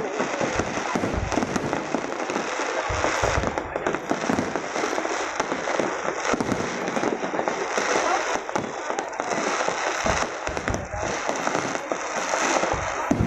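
Fireworks going off in a dense, continuous crackle with a few deeper booms among it.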